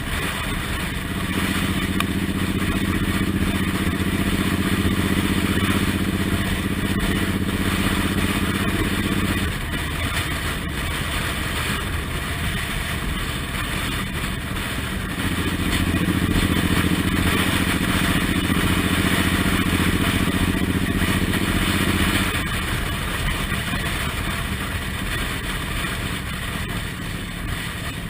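Suzuki Intruder M1800R's V-twin engine running on the move. Its drone swells twice for several seconds at a time and eases off in between and near the end, over constant wind noise.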